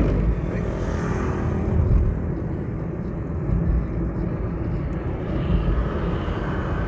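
Steady low rumble of a car driving along the road, heard from inside the cabin: road and engine noise.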